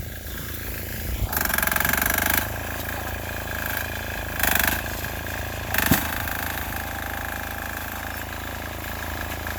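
A 6 hp single-cylinder air-cooled diesel on a garden tractor running steadily under load while pushing through a snow drift. Short bursts of hissing noise come over it three times: about a second in for about a second, then twice briefly in the middle.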